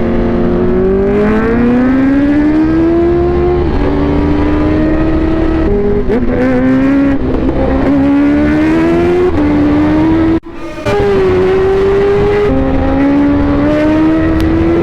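Motorcycle engine under hard acceleration through the gears. Its pitch climbs, then drops back at each upshift, a few times over, with a brief sudden dip in sound about ten seconds in.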